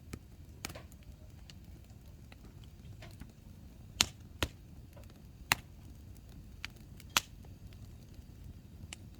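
Hardwood firewood burning in an open campfire, crackling with a string of sharp pops over a low steady rumble of flame. The loudest pops come about four, five and a half and seven seconds in.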